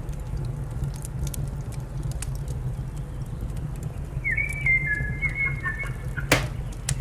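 Fire crackling over a steady low rumble, with scattered pops and one loud sharp crack a little after six seconds. A bird calls in a short series of broken, wavering notes from about four seconds in.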